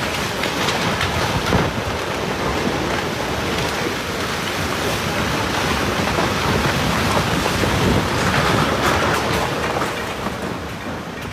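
Loud, steady rush of water, with wind buffeting the microphone, fading near the end.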